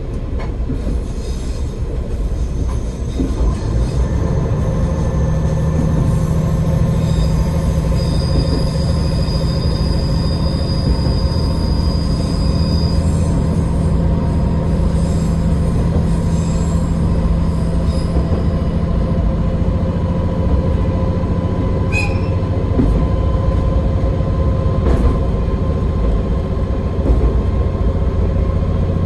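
AN-8800 diesel railcar running on the line, heard from inside the cab: the engine grows louder about four seconds in, then runs steadily. A thin high wheel squeal comes in from about eight to thirteen seconds in.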